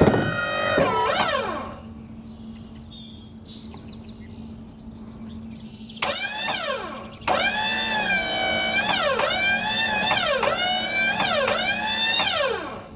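Wood-Mizer LT35HD sawmill's hydraulics running: a whining pump and motor whose pitch sags under load and climbs again, briefly at the start and then in repeated swoops from about halfway through, over a steady low hum.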